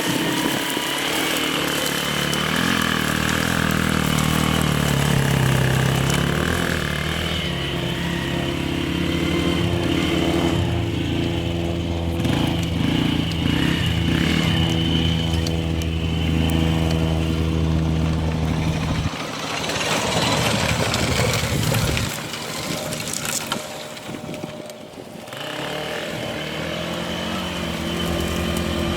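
Small 90cc Polaris quad engine revving up and down as it is ridden. The engine sound falls away about two-thirds of the way through, stays faint for a few seconds, then grows louder again as the quad comes back.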